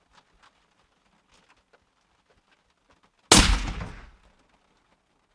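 A single shot from a suppressed Browning X-Bolt .30-06 rifle about three seconds in: one sharp crack that dies away over about a second.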